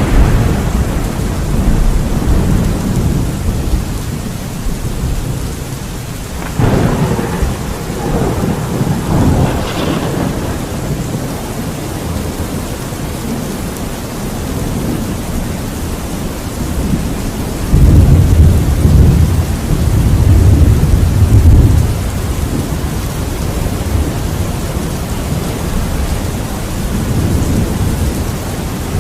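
Thunderstorm: steady rain falling under continuous rolling thunder. Two sharper claps come about a quarter and a third of the way in, and the loudest, deepest rumble lasts about four seconds past the middle.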